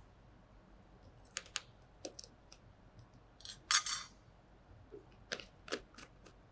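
Scattered light clicks and taps of glassware as solid ammonium acetate is put into a test tube, with a short scraping rustle about three and a half seconds in.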